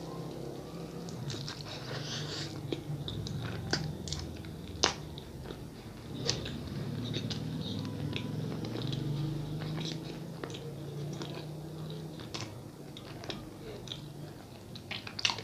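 Close-miked chewing of a soft sonho, a Brazilian doughnut filled with guava paste, with a bite at the start. Sharp wet mouth clicks and smacks recur irregularly throughout.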